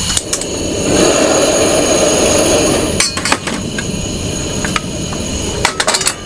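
Clinks and knocks of metal cookware, a few sharp strikes in two clusters, over a steady hiss of heavy rain.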